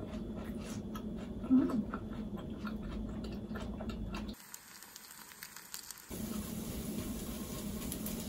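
Close-up chewing of crisp bean sprout pancake: a run of small crunching clicks, with one short louder mouth sound about one and a half seconds in. The chewing stops about halfway through, leaving a low steady hum.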